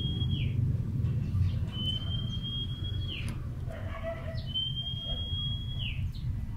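A bird calling the same phrase over and over, about every two and a half seconds: a long, high, slightly rising whistle that ends in a quick downward slide. A low background rumble runs beneath it.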